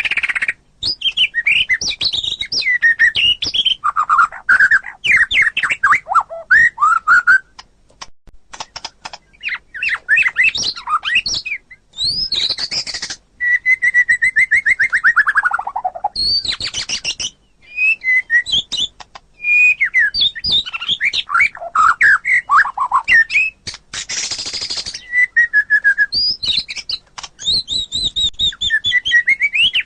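White-rumped shama (murai batu) singing a varied song of rapid whistled phrases mixed with harsh rasping notes and short pauses. About halfway through it gives a long whistled note that slides down in pitch.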